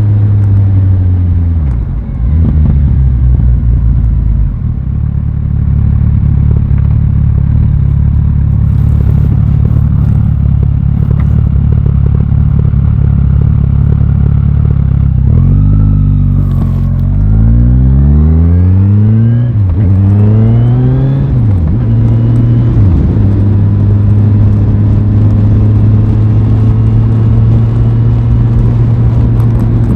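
Aprilia Tuono 660's parallel-twin engine on the move: a steady cruise, revs falling about two seconds in, then several rising sweeps through the gears about halfway through as it accelerates, before settling back to a steady cruise.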